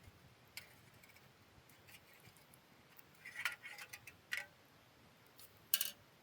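A series of light clicks and clinks, as of small hard objects being handled, bunched together about halfway through, with a sharper clink near the end.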